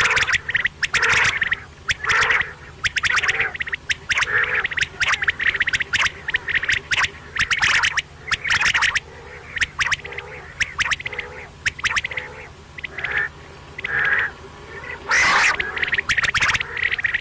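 Quail calling over and over in quick rattling bursts, about one burst a second.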